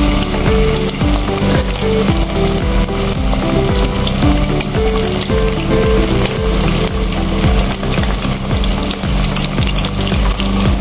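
Chicken pieces deep-frying in hot oil in a pot: a steady, loud sizzle and crackle of bubbling oil.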